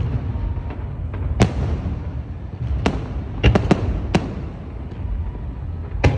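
Fireworks shells bursting: single sharp bangs a second or so apart, with a quick triple crackle in the middle, over a steady low rumble.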